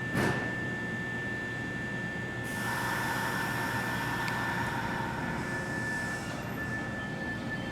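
Nankai 50000 series Rapi:t train standing at the platform: a sharp knock, then about four seconds of compressed-air hiss that cuts off suddenly, over a steady high tone.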